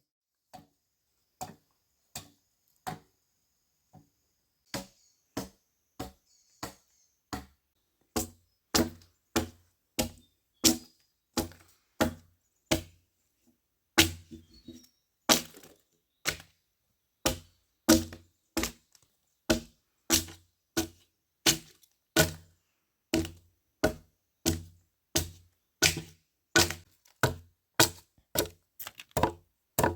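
Repeated chopping blows of a tool into wood, each a sharp hit with a low thud. They are sparse at first, then steady at about one and a half blows a second from about eight seconds in.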